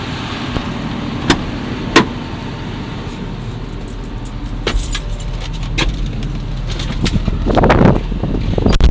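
John Deere 210G excavator's diesel engine idling steadily, with several sharp clicks and knocks and louder clattering near the end.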